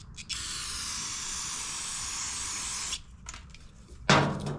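A spray of cleaner hissing steadily onto carburetor parts for about two and a half seconds, then stopping. A brief loud sound follows near the end.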